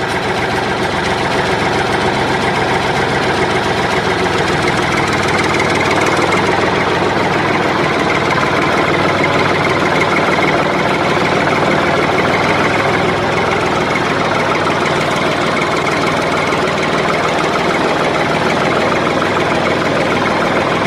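An engine idling steadily with an even, rapid knocking beat. It cuts off suddenly at the very end.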